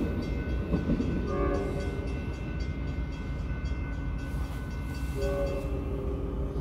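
A train rumbling off beyond the crossing, its horn sounding twice, briefly about a second in and again near the end. Under it a steady ringing tone, likely the crossing's warning bell, stops a little before the end.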